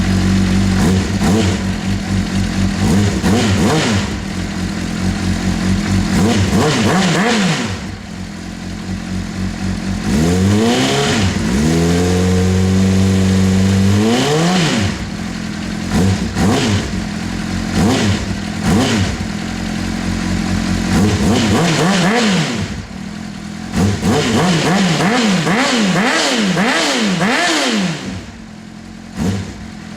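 2003 Honda CBR600RR's inline-four engine with twin Arrow exhaust pipes being revved while stationary: it idles at first, then runs through repeated quick throttle blips. About ten seconds in, one rev climbs and is held high for about four seconds before dropping back.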